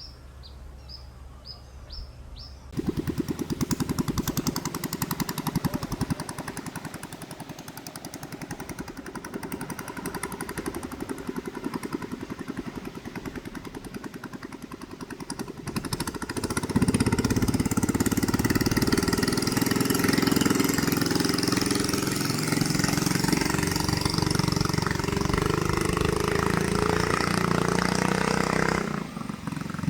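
A few short bird chirps, then a small engine cuts in abruptly about three seconds in and runs with a rapid, even firing rhythm. It gets louder just past the halfway point and drops away near the end.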